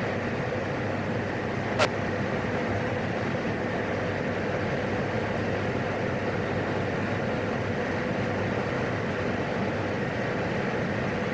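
Steady in-flight drone of a single-engine turboprop and propeller, heard through the cockpit headset intercom, with one short sharp click about two seconds in.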